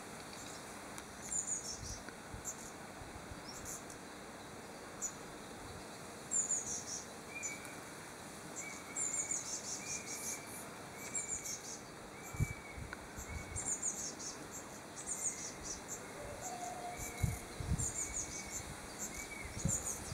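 Small songbirds calling: short high chirps repeat throughout, and about a third of the way in a series of short, lower whistled notes joins them, about one a second. A few low thumps come around two-thirds of the way through.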